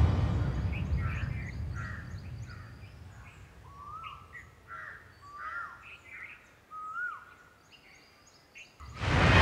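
Birds chirping and calling in short, sparse phrases, several of the calls a quick rising-then-falling whistle. A low rumble fades out over the first few seconds, and loud music cuts back in near the end.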